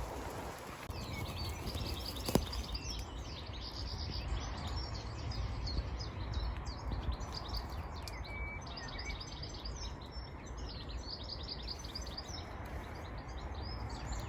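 Wild songbirds singing, a dense run of quick high chirps and trills starting about a second in, over a steady low wind rumble, with a single sharp click about two seconds in.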